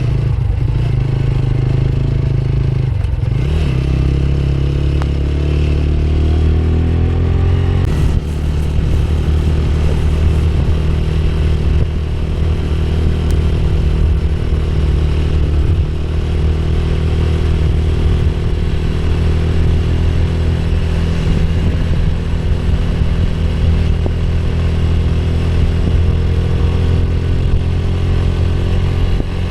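Motorcycle engine running while riding, a steady low drone. Its pitch climbs over the first several seconds, then changes abruptly about eight seconds in, and it holds steady after that.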